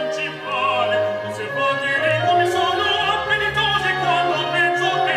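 Operatic singing in Italian with strong vibrato over an orchestra, played back through a Philips Fidelio B8 soundbar as a sound test.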